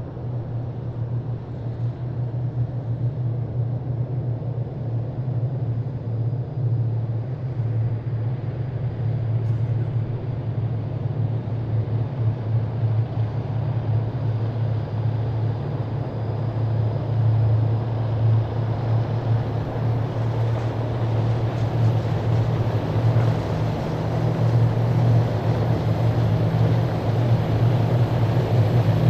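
Military vehicles in a parade column driving past, their engines giving a steady heavy low hum that grows louder toward the end. A faint high whine comes in about halfway through.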